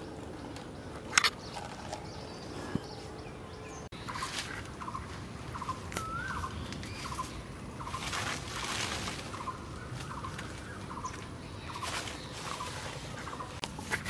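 A bird calling in a quick run of short repeated notes, a few a second, from about four seconds in, one note sliding upward. Earlier, about a second in, there is one sharp knock.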